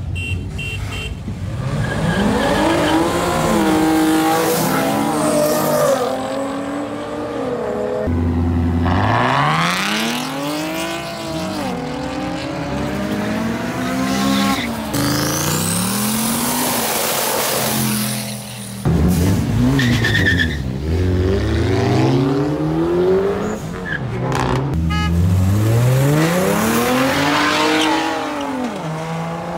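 Car engines revving hard during donuts and burnouts, the pitch climbing and dropping back again and again, with tyres squealing and skidding on the pavement.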